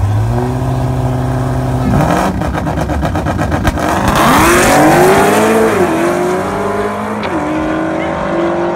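Car engine running steadily, then a choppy, pulsing stretch about two seconds in, followed by hard acceleration: the pitch climbs and drops back twice as it shifts up through the gears.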